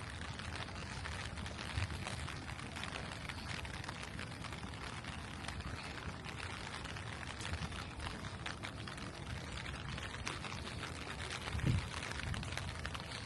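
Steady rain falling, a dense patter of drops over a low rumble, with a brief low thump near the end.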